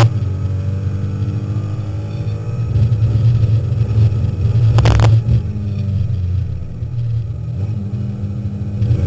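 Alpine A310 race car's engine heard from inside the cockpit while lapping, the revs falling away early and building again near the end, with one brief loud burst about five seconds in.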